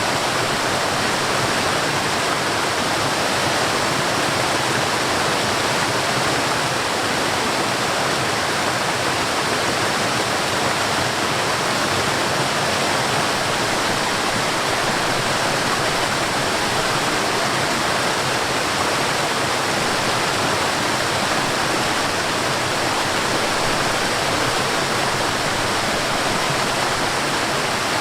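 Mountain stream and small waterfall: water rushing and splashing over rocks in a steady, unbroken flow.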